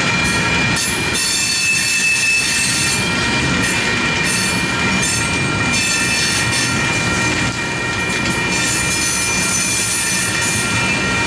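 Freight train's coal cars rolling past a grade crossing: a steady rumble and clatter of steel wheels on the rails. Steady high-pitched ringing tones sit over the rumble.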